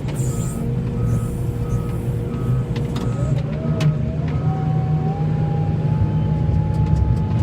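A heavy vehicle's engine running steadily, with its backup alarm beeping about twice a second for the first three seconds. After that a whine rises in pitch and then holds steady.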